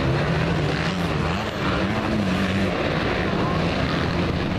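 Motocross motorcycle engines racing on the track, their pitch rising and falling as the riders work the throttle.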